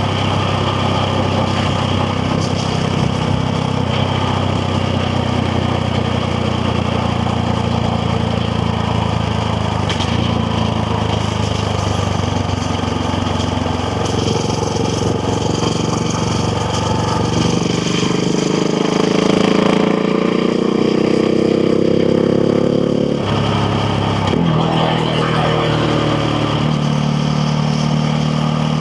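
KTM Duke 690R's single-cylinder engine running steadily under way, then rising in pitch as the bike accelerates from about halfway. The note breaks off briefly a little after two-thirds in and climbs again.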